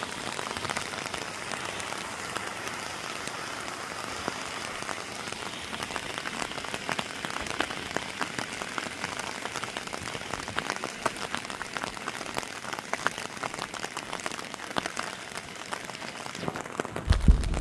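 Steady rain falling, an even hiss dotted with many small, quick drop ticks. A short low rumble comes in near the end.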